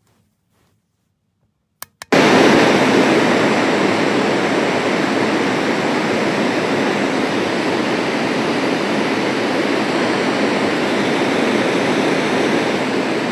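Magicteam white noise machine: two short button clicks, then loud, steady rushing noise that starts abruptly about two seconds in and holds even.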